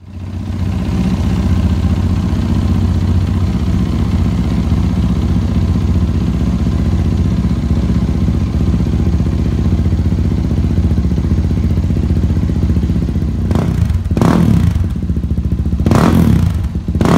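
2016 Yamaha WR450F's single-cylinder four-stroke engine, breathing through an FMF GYTR aftermarket exhaust, starting up and idling steadily, then revved in a few quick throttle blips near the end.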